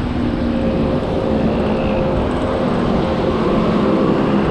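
Wind rushing over the microphone of a road bike moving at speed, with the steady hum of a motor vehicle's engine running alongside.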